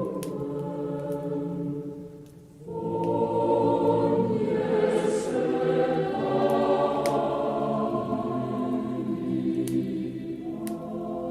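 Choir singing a slow Christmas song in sustained held chords, dipping briefly about two and a half seconds in before the next phrase. Occasional faint clicks of a crackling fireplace fire.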